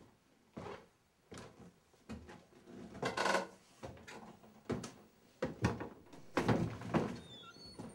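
A series of irregular wooden knocks and clunks, spaced about a second apart. A longer, louder scrape or creak comes about three seconds in. A few faint high chirps sound near the end.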